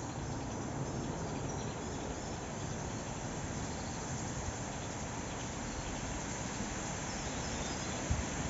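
Steady wind noise on the microphone, with faint high chirps of a small songbird now and then.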